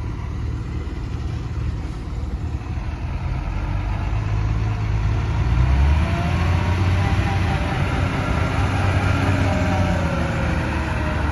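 Heavy construction vehicle's diesel engine running with a deep rumble, growing louder about halfway through as it revs, with a rising whine over it.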